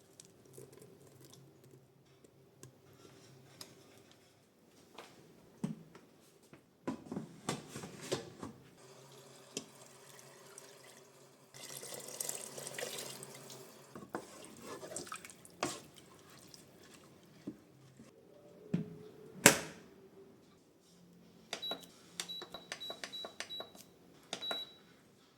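Kitchen work sounds: scattered clicks and knocks of utensils and containers, with a tap running briefly about halfway through and one sharp knock a little later. A series of short, high electronic beeps comes near the end.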